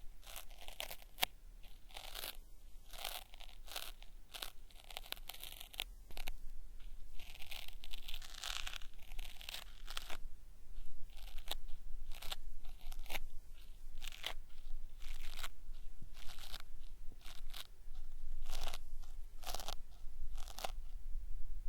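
Cotton swab rubbing and scraping at a binaural microphone's ear in ASMR ear cleaning, made to crackle like something being peeled off. Irregular crackly strokes come several a second and grow louder about six seconds in.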